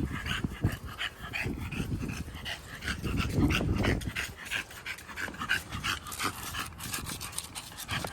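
American bully puppy panting in quick, short breaths.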